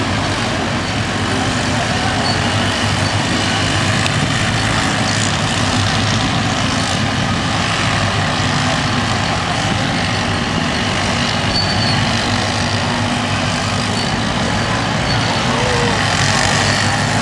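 Several small off-road race-truck engines running together in a steady, dense din.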